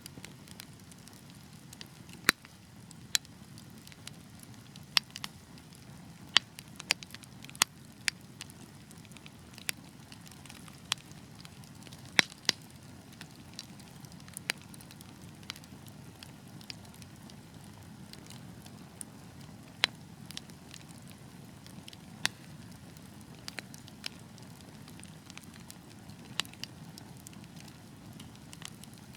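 Wood fire burning with a low steady rumble of flames and irregular sharp crackles and pops from the burning logs, a few louder pops scattered through.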